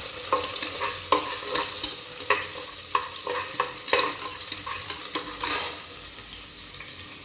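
Sliced shallots frying in oil in a pressure cooker, a steady sizzle with a spatula scraping and knocking against the pot about twice a second as they are stirred. The stirring stops about five and a half seconds in, leaving the sizzle alone.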